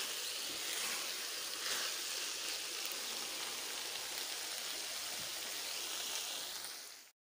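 Fried idli pieces in chili sauce sizzling steadily in a non-stick kadai as they are stirred with a spatula. The sizzle cuts off abruptly near the end.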